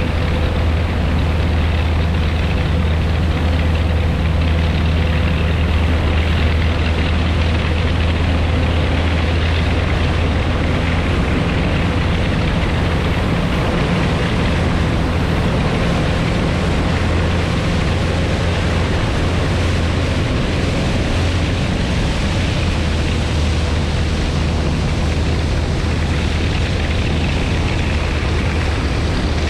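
The four Wright R-3350 18-cylinder radial engines of a Martin Mars flying boat running with a steady low drone.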